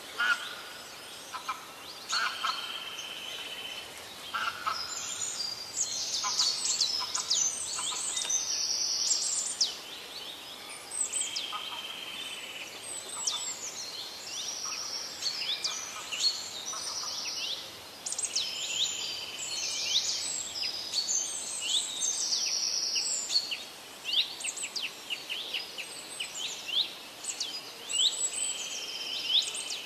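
Several birds chirping and singing together: a busy run of short whistled chirps and quick falling notes, with held notes of about a second mixed in, over a faint steady hiss.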